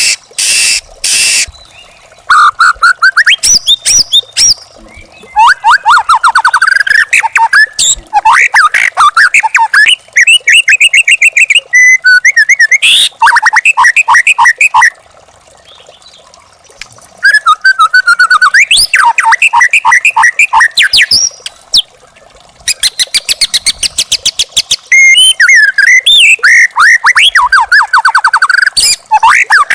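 White-rumped shama (murai batu) singing in loud phrases of fast repeated whistled notes and trills, with short pauses between phrases.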